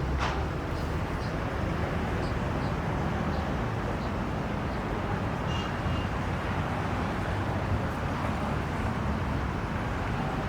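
A vehicle running with a steady low rumble, with a faint light tick repeating about every three quarters of a second.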